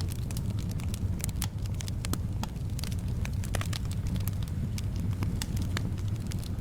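Wood fire crackling in a fireplace: irregular sharp pops and snaps over a steady low rumble of soft wind.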